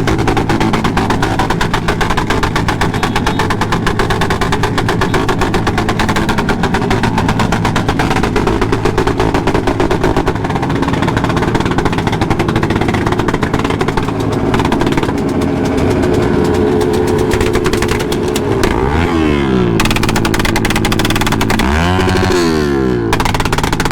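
Motorcycle engines running loud with a rapid, popping exhaust beat, revving up and back down twice near the end.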